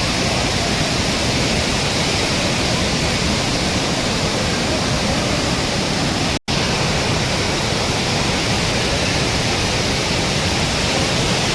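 Waterfall's steady rushing water, a dense even noise across all pitches, broken by a split-second dropout about six seconds in.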